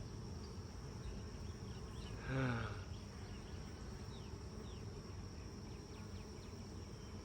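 Honey bees buzzing in a steady hum around an open hive during an inspection. A short murmur from the beekeeper comes about two and a half seconds in.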